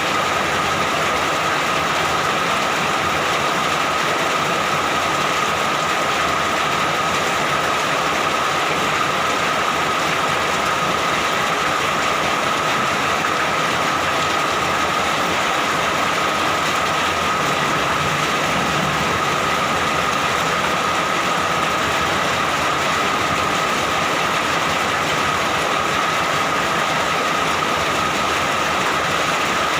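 Steady, unbroken rainfall with no pauses or peaks, a thin steady tone running through it.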